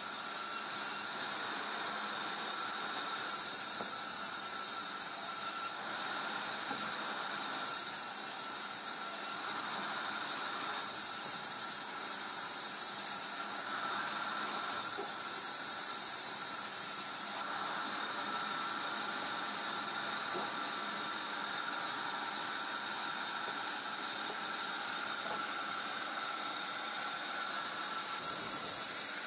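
Sawmill saw running with a steady whine while cutting coconut timber. Louder stretches of hiss lasting a couple of seconds come four times in the first half and again near the end.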